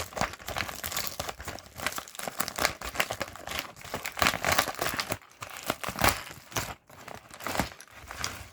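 Packaging being crinkled and rustled by hand as a mail package is opened, an irregular run of crackles with a couple of brief pauses.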